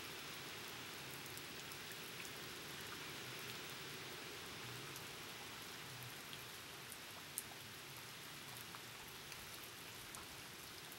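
Steady hiss of rain from Hurricane Sandy, with scattered drop ticks and one sharp tick about seven seconds in.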